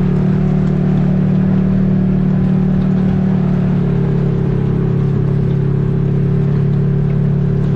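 Motor vehicle engine running at a steady speed with a low, even drone; its pitch shifts slightly about four seconds in.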